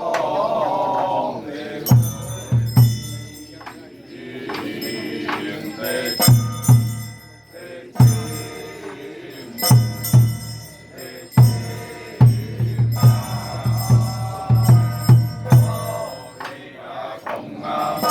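Xiaofa ritual masters chanting in a temple rite, over a drum beaten in quick clusters of strokes and bright metallic bell or cymbal strikes. The chanting voices come and go in phrases between the drum groups.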